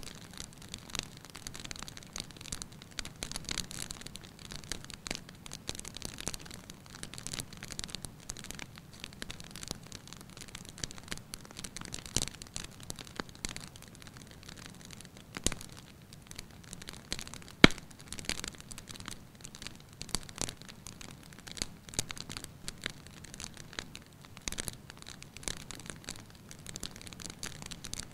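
Wood fire in a fireplace crackling steadily, with scattered sharp pops; the loudest pop comes about two-thirds of the way through.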